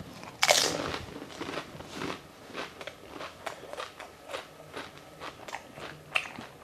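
A whole chicken fuchka, a crisp fried puri shell, crunching loudly as it is bitten about half a second in, then chewed with short crunchy strokes about two a second.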